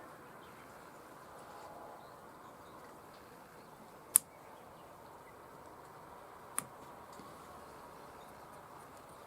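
Two sharp clicks from small parts being handled during a carburetor teardown, about two and a half seconds apart, the first louder, over a faint steady hiss.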